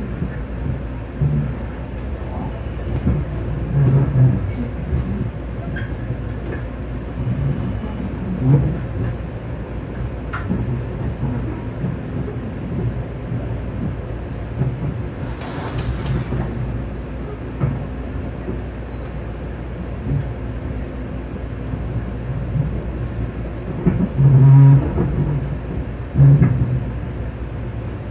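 Ride inside a Long Island Rail Road electric commuter train: a steady rumble of wheels on the rails with scattered knocks, a brief hiss about halfway through, and two heavier low thumps near the end.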